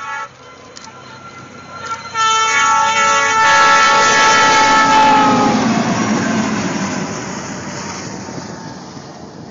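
Snow plow train passing close: the locomotive horn sounds a steady chord, breaks off briefly, then blows again loudly about two seconds in and drops in pitch as it goes by. A loud rushing noise of the plow throwing snow and the train going past swells up and then slowly fades.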